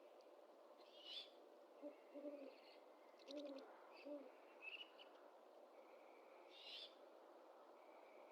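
Great horned owl hooting faintly: four short, deep hoots, the second one doubled. Two brief higher bird chirps sound before and after the hoots.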